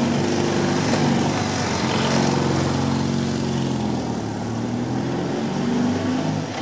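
Motorcycle engine running under way, its pitch shifting a few times as the speed changes, over a steady rush of wind noise.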